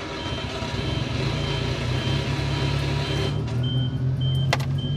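Subaru Sambar kei truck's small engine idling steadily, just restarted after a stall. A high beep repeats about twice a second over it, the truck's reverse warning buzzer, and there is a sharp click near the end.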